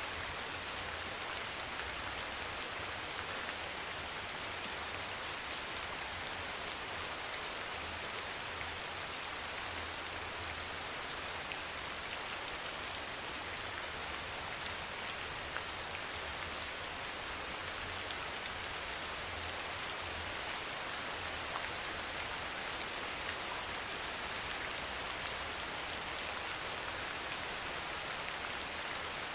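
Steady soft rain falling: an even hiss of rain with scattered individual drops ticking through it. A faint low rumble comes and goes underneath.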